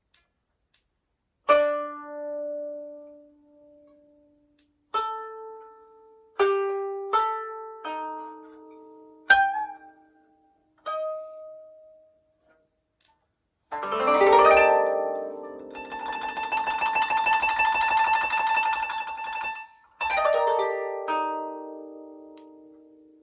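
Koto being played: single plucked notes ringing out and fading, then a rapid tremolo passage of shimmering repeated strokes for several seconds, then a few more plucked notes.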